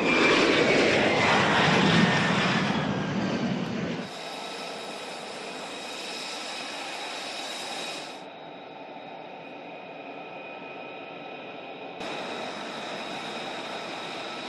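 Jet fighter passing close with a loud roar whose pitch falls over the first few seconds, followed by steadier jet noise with high whining tones that changes abruptly about every four seconds.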